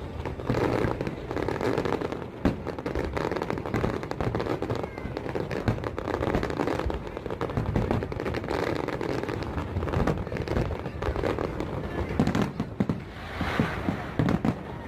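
Fireworks going off in rapid, irregular succession: many pops and bangs, with crowd voices underneath.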